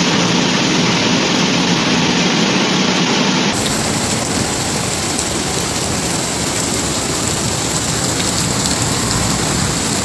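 Torrential storm rain pouring down in a dense, steady hiss. The sound changes abruptly about three and a half seconds in, where one clip cuts to another.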